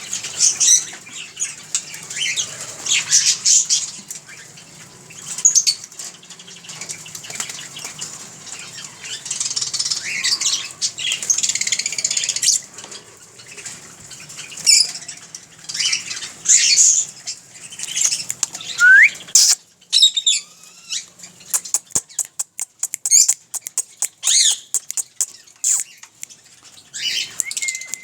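White ringneck parakeet squawking and chattering in repeated high-pitched calls, with a rising whistle about two-thirds of the way in. This is followed by a rapid run of sharp clicks mixed with a few more calls.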